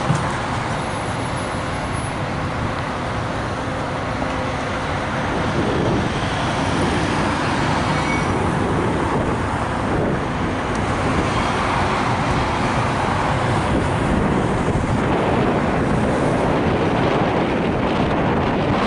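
A train passing close by: a steady rumble and rush of wheels on rail, with a faint steady tone in the first five seconds or so.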